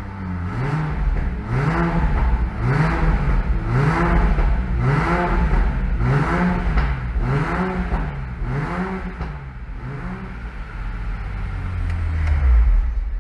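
BMW Z4 M40i's turbocharged straight-six, heard from inside the car, revved in neutral in about ten quick blips, roughly one a second, each rising and falling in pitch. The blips die away about ten seconds in. A low rumble then swells and cuts off abruptly as the engine is switched off.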